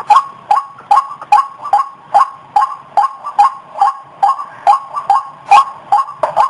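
White-breasted waterhen (ruak-ruak) lure call: a loud, short two-toned note repeated evenly about two and a half times a second.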